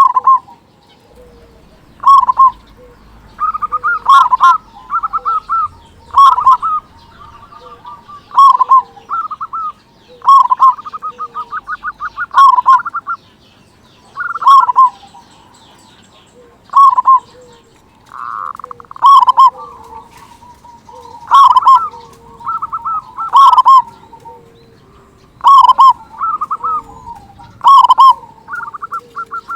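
Zebra dove (perkutut) singing persistently with a big voice: phrases of quick stuttering coos and loud clear coo notes repeated about every two seconds.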